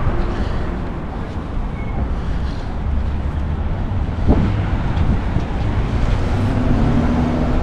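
Street traffic noise: a steady low rumble of passing cars on a city road, with a brief knock about four seconds in.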